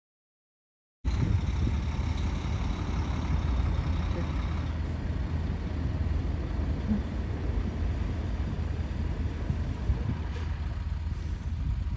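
Steady low rumble of an idling vehicle engine, which starts abruptly about a second in after dead silence and holds an even level.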